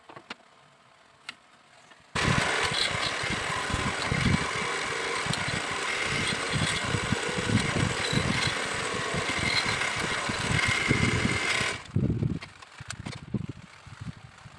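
A small power tool switches on about two seconds in, runs steadily for about ten seconds and cuts off suddenly, followed by irregular knocks.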